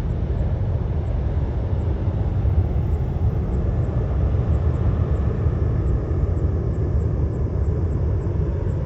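Steady low rumble of jet aircraft engines, running on without a break.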